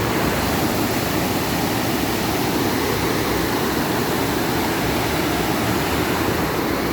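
Floodwater gushing out of an overflowing reservoir swollen by heavy rain: a steady, unbroken rush of water.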